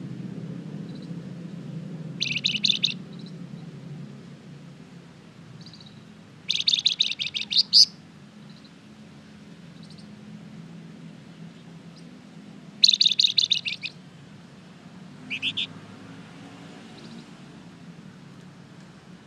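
A flamboyan songbird in full song, giving four short bursts of rapid, sharp chirping notes, each a second or so long, with pauses between. A low steady hum runs underneath.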